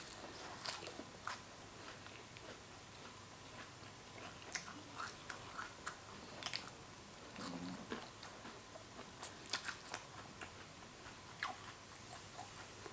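A person chewing and biting mouthfuls of spicy horseshoe crab egg salad, close-miked, with many short, irregular mouth clicks.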